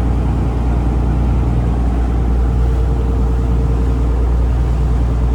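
A taxi boat's engine running steadily, a low, even hum that does not rise or fall.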